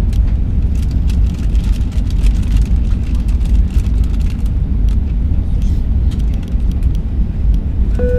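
Airbus A320 cabin noise during descent: a steady low rumble of engines and airflow, with scattered small clicks. A single chime sounds right at the end.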